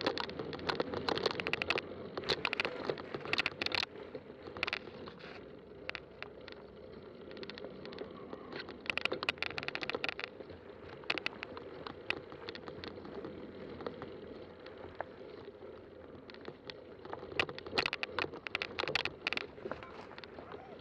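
Fat-tire bike riding along a trail: steady tyre rolling noise with frequent clicks, crackles and rattles, thickest in clusters near the start, around 9 to 11 seconds in and around 17 to 20 seconds in.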